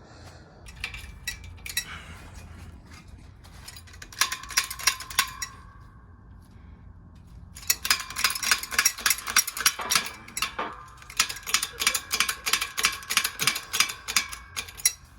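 Hammer tapping on a metal driver to press a chilled wheel bearing into a BMW E46 M3 differential: quick runs of ringing metallic strikes, about four a second, with a short pause between runs.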